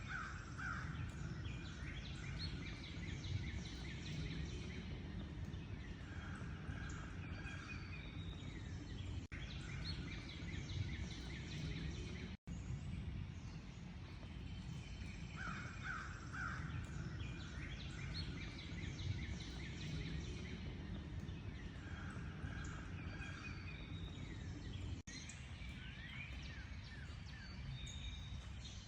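Outdoor bird chorus: many small birds chirping and trilling, with a harsher, lower call repeating every several seconds, over a steady low background rumble. The sound cuts out briefly about halfway.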